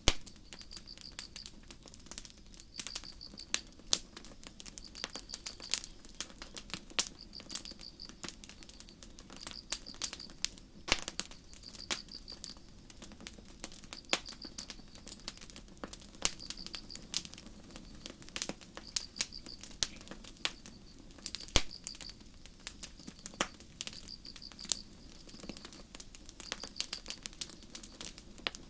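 Campfire crackling with irregular sharp pops over a low steady rush of burning, while crickets chirp in short high trains repeating about every second and a half.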